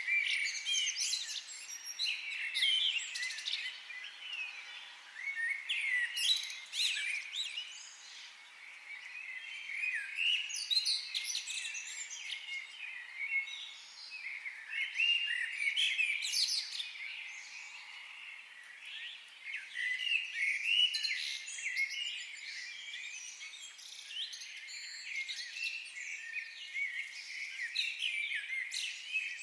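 Forest birdsong: several birds chirping and warbling at once, overlapping high calls that swell and ease every few seconds.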